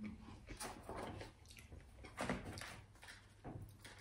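Faint chewing of pizza, with scattered soft wet mouth clicks, one a little louder about two seconds in.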